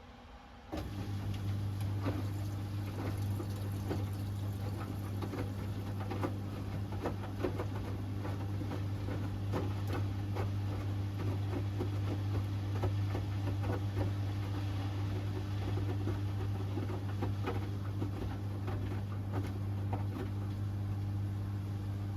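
Hoover Axi 10 kg washing machine running on its Rapid 30' cycle. A steady low hum starts suddenly about a second in, with scattered clicks and water sounds over it.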